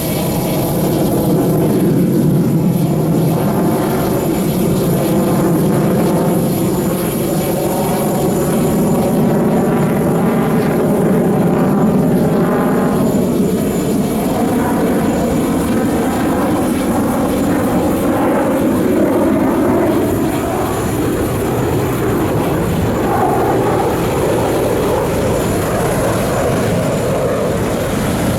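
Su-30SM fighter jets' twin turbofan engines heard in an aerobatic display flyby: a continuous loud rumble, with whining tones that slide up and down in pitch as the jets pass.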